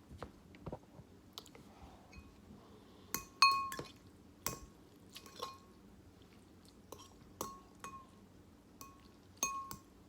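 An eating utensil clinking against a ringing glass or ceramic bowl of noodles, about ten irregular taps, each leaving a short bright ring, the loudest about a third of the way in.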